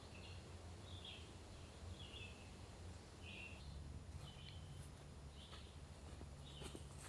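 A bird calling faintly and repeatedly in woodland, short high-pitched calls about once a second, over a low steady hum, with a few faint clicks near the end.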